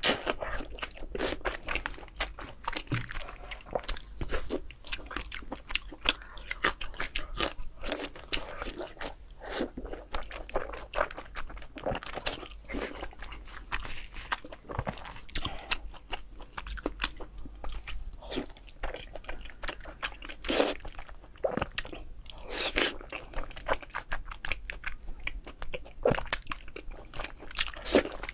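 A person chewing and biting meat close to the microphone, with dense, irregular crunching and wet mouth clicks and a few louder bites.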